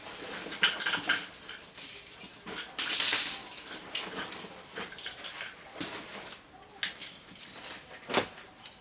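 Climbing hardware being handled and sorted: scattered metal clinks and knocks, with a loud rustling burst about three seconds in.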